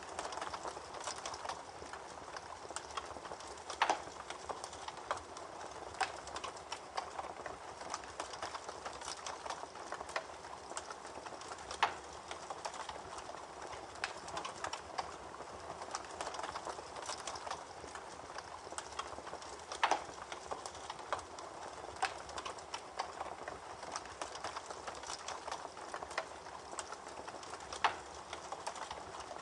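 Campfire crackling: a steady hiss of burning wood full of small snaps, with a louder pop about every eight seconds.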